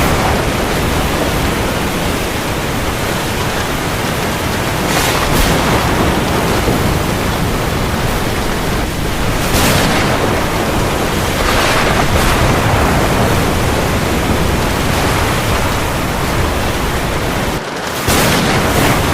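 Heavy rain, a steady dense hiss with a few short swells of louder noise. It dips briefly near the end and comes back.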